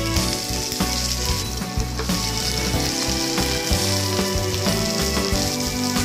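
Food frying in hot oil in a pan, a steady sizzle, with background music playing underneath.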